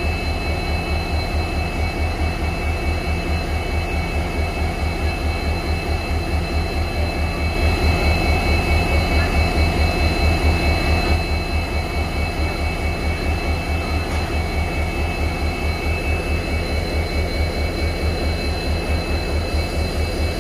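Diesel engine running steadily at idle-like speed, with an even low pulsing beat of about five strokes a second and a faint steady whine; it gets slightly louder for a few seconds in the middle.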